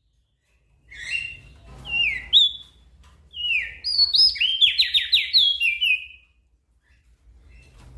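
Crested white-eye (opior jambul) singing: a run of quick, sliding whistled phrases that starts about a second in, with a fast trill in the middle, and stops well before the end.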